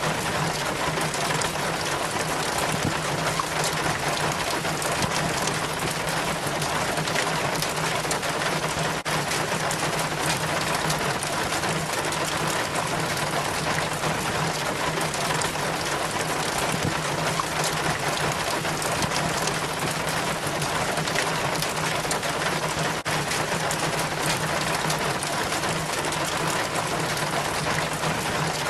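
Rain water running down a rain chain from a gutter, a steady trickling and splashing of falling water, with a low steady hum underneath.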